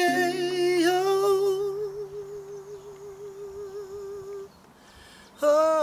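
A singer holds a long hummed note with a wavering vibrato, fading out over about four seconds above a sustained accompaniment chord. After a short near-silent pause, a new sung note and chord start loudly near the end.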